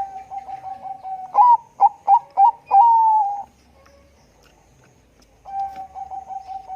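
Zebra dove (Bangkok-type perkutut) song: a fast run of short coos, then a few louder, higher notes and one long falling note. After a pause of about two seconds, a new fast run of coos begins near the end.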